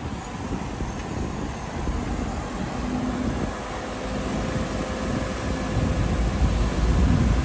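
Heavy diesel earthmoving machinery running with a deep engine rumble and a steady engine note through the middle, growing louder near the end.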